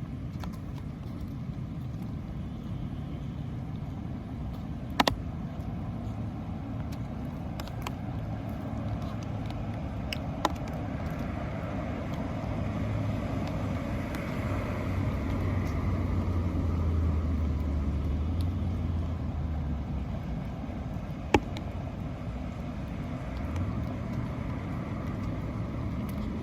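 A motor vehicle driving past over a steady background rumble, its engine growing louder to a peak about two-thirds of the way through and then fading away. A few sharp clicks stand out along the way.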